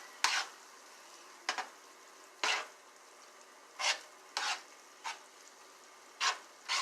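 A spoon stirring and scraping through food in a cooking pan, about eight short uneven strokes, over a faint steady sizzle.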